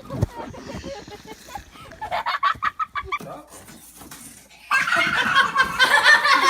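Animal calls like those of fowl: short, repeated squawking cries, with scattered calls early on, then much louder and busier from about five seconds in.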